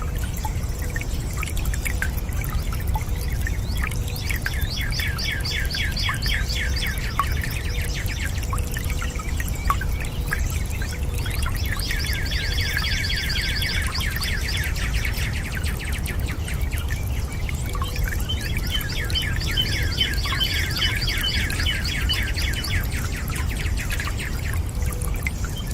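A songbird singing in three long bouts of rapid repeated chirps, over a steady low rush of running water.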